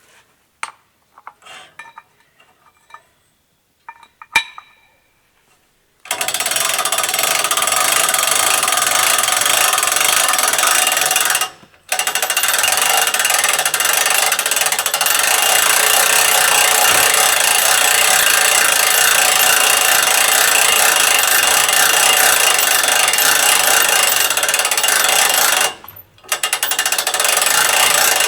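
A few scattered clicks and knocks, then the winch on a hitch-mounted deer hoist runs steadily from about six seconds in, hoisting a spare tire. It stops briefly twice.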